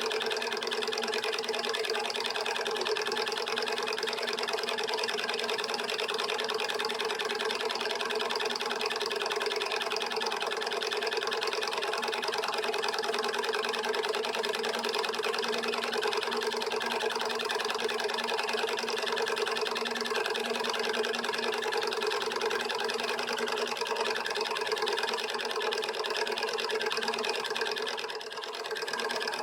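Homemade beta-type Stirling engine running steadily with a fast, even mechanical clatter, dipping briefly near the end.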